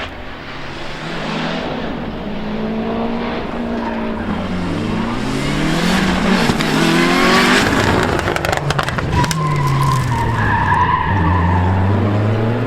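Rally car engine running hard on a stage, its pitch rising and falling repeatedly through throttle and gear changes, with a burst of sharp crackles about two-thirds through.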